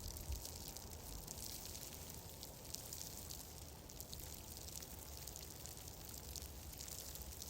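Wood fire in a fireplace, crackling with many small, irregular pops over a steady low rumble.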